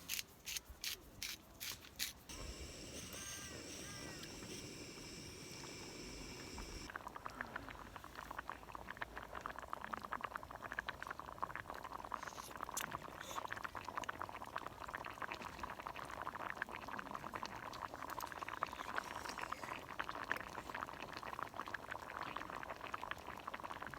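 A few clinks of a utensil, then a steady pouring hiss as more is added to the pot, then the pasta in its buttery liquid bubbling and crackling with a dense stream of tiny pops as it simmers.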